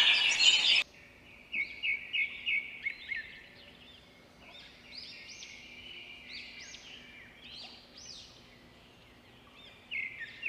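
A loud, noisy sound cuts off abruptly under a second in, leaving birds chirping: series of short, quick high calls that come and go.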